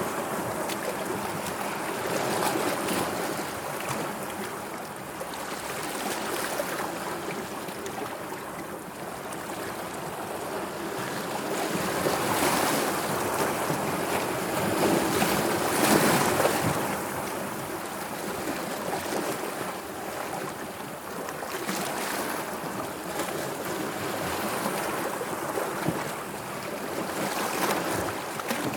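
Sea waves breaking and washing in, a steady surf noise that swells and eases, loudest about halfway through.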